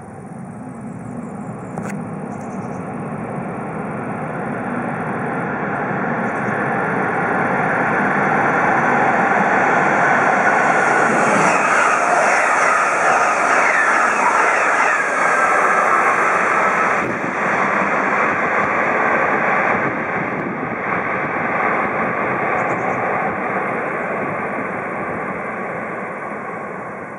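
ICE high-speed train passing at speed: a rushing noise of wheels on rail and air that swells over about ten seconds, is loudest midway as the train goes by, then slowly fades.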